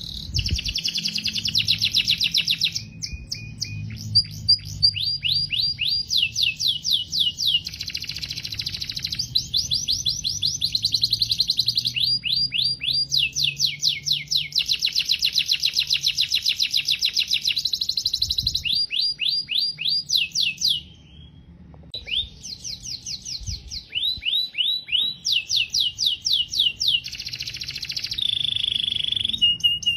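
Canary singing a long, continuous song of fast trills: runs of rapidly repeated sweeping notes and buzzy rolls, changing from one trill to the next every second or two, with a brief pause about two-thirds of the way through.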